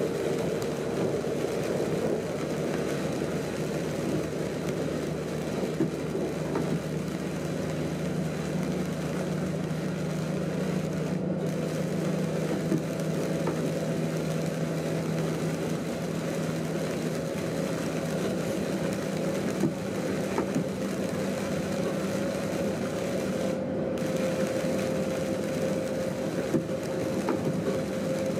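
Train running at speed, heard from inside the driver's cab: a steady rumble with a low hum and a higher steady tone, and a few light clicks.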